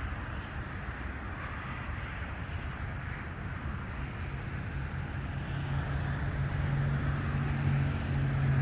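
Wind rumbling on the microphone while riding a bicycle, with a low steady hum building in the second half and getting louder toward the end.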